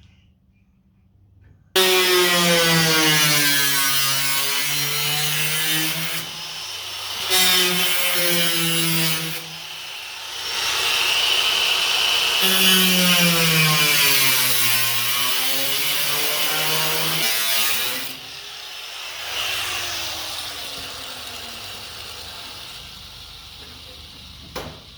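Handheld power saw cutting an opening through the shop wall for an outlet box. It runs in several spells with short breaks, its pitch sagging and rising as it cuts. It stops about 18 seconds in and its whine falls away as it spins down.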